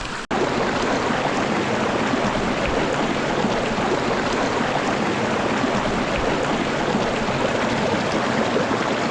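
River water flowing, a steady rushing, which gets louder after a brief cut about a third of a second in.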